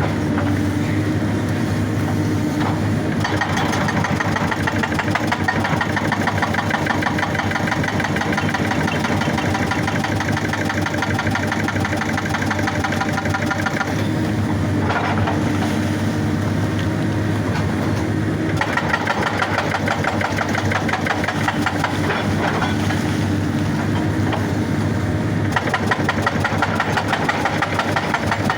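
Excavator diesel engine running steadily, with a hydraulic rock breaker hammering in long runs of rapid blows and a pause of a few seconds between runs.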